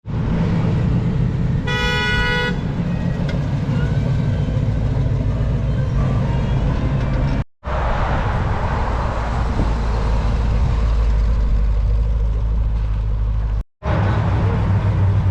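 Car engines running with a steady deep hum, and a short car horn toot about two seconds in. The sound breaks off sharply twice, at video edits.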